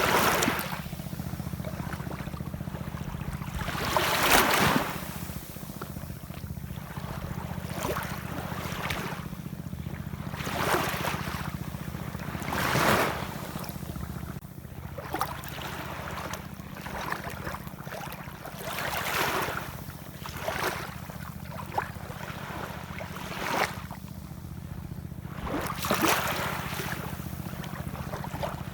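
Ocean waves washing and splashing in irregular surges every two to four seconds, the biggest about four seconds in, over a steady low rumble.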